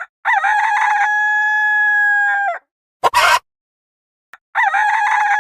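Rooster crowing twice: a stuttering start breaking into one long held note, a short call in between, then the next crow begins near the end.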